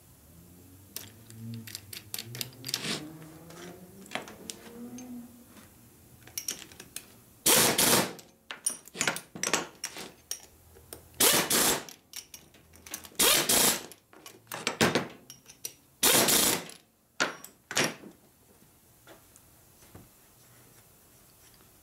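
Engine parts being handled on a workbench: scattered small metallic clicks and knocks, with several short, loud bursts of noise in the middle stretch.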